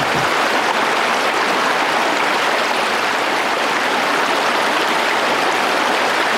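A stream rushing steadily, with an even, unbroken sound of flowing water.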